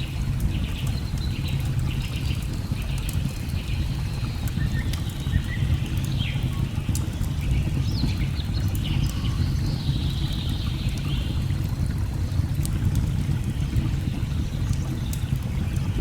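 Steady low rush of a waterfall, with birds chirping and calling on and off and scattered light crackles of a burning wood fire.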